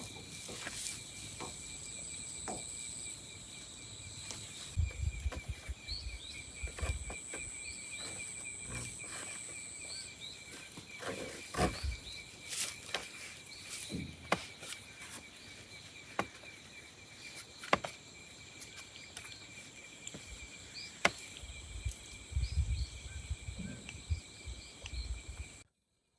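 Insects trilling steadily at a high pitch, with scattered knocks and clicks and brief low rumbles; it all cuts off abruptly just before the end.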